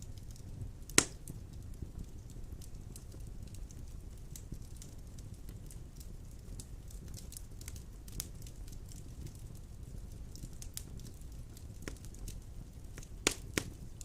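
Large wood logs burning in a stone fireplace: a steady low rumble of the flames with scattered crackles, a loud pop about a second in and two more pops close together near the end.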